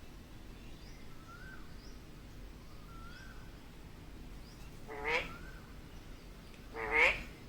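Indian ringneck parrot giving two loud calls that sweep sharply upward in pitch, about five and seven seconds in, the second louder. Faint, short soft notes repeat about every second and a half beneath them.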